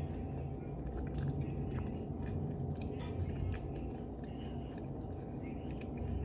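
A person biting into and chewing a chipotle chicken avocado sandwich, with scattered small mouth clicks over a steady low background hum.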